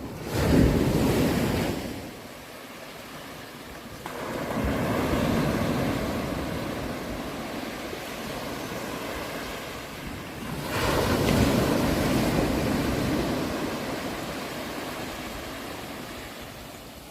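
Sea waves breaking and washing back. The rush of water surges three times, about a second in, at four seconds and near ten seconds, each swell slowly fading away.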